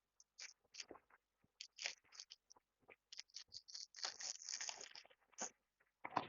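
Close-miked eating: irregular crisp crunches and wet chewing clicks, with a denser run of crunching about four seconds in.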